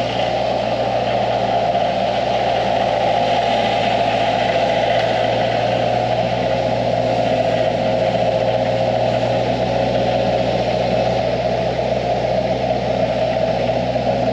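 Gehl skid steer engine running steadily at a constant speed, with no change in level.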